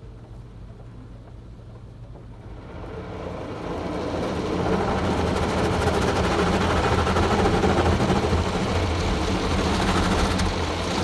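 Rotating brushes of a WashTec Soft Care 2 Pro car wash gantry coming over the car and scrubbing it, heard from inside the cabin. A low machine hum at first, then the brush noise grows from about three seconds in and stays loud and steady.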